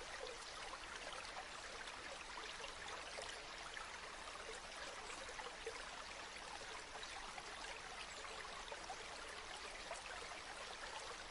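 Gently flowing river water: a steady babble of many small splashes and trickles.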